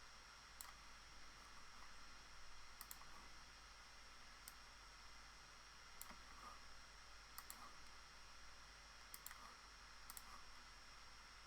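Near silence with faint, scattered computer mouse clicks, about ten of them, some in quick pairs, over a low steady hiss.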